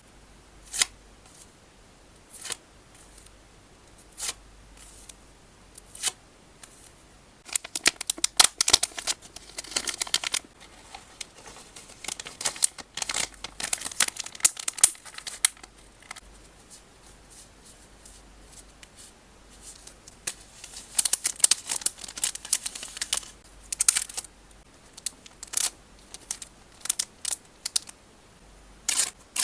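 Photocards being packed by hand: plastic sleeves and packaging crinkling and rustling in several dense bursts, with scattered sharp clicks and taps between them, over a low steady hum from the recording's noise floor.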